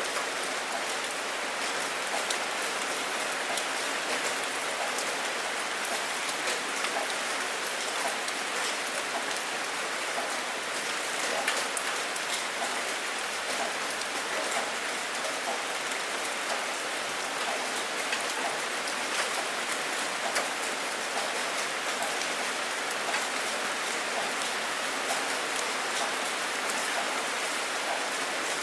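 Steady rain falling, with many small, sharp ticks of single drops striking close by throughout. No thunder rumble is heard.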